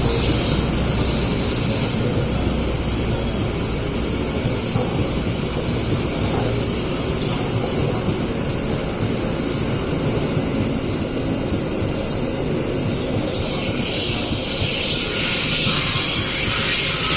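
Train running along the tracks at a station: a steady rumble and clatter of wheels on rail, with brief high wheel squeals. A hiss builds up near the end.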